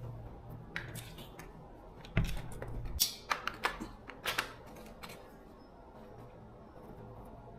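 Sharp clicks and taps of small hard parts being handled, bunched between about two and four and a half seconds in, over a low hum that stops about three seconds in.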